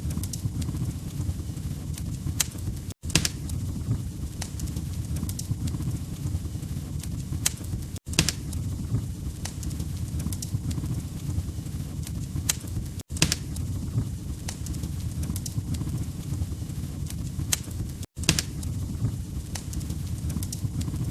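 Log fire crackling, with frequent sharp pops and snaps over a low rumble of flame. The sound drops out for an instant about every five seconds.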